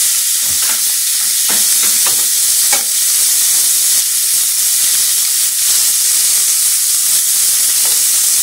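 Hot dogs sizzling as they cook, a steady frying hiss, with a few light knocks in the first three seconds.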